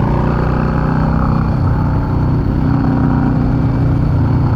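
Yamaha V-Star 650's air-cooled V-twin running steadily at road speed, with wind and road noise, heard from a helmet-mounted camera; the engine note shifts slightly about halfway through.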